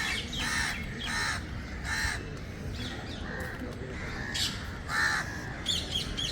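Crows cawing repeatedly, about six harsh caws spread out over several seconds, with a few quick higher-pitched bird chirps near the end.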